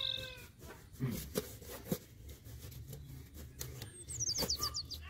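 Small birds calling: a short squeaky call at the start and a quick run of high, falling chirps near the end. In between come a few sharp knocks and creaks as a woven basket is worked down into the mud.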